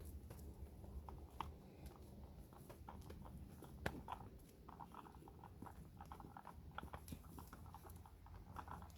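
Faint handling noises: scattered small clicks and rustles of rope and hook gear being sorted, over a low steady hum.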